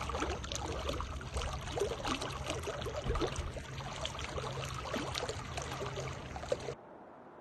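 Water trickling and splashing over a steady low rumble. The sound cuts off abruptly near the end.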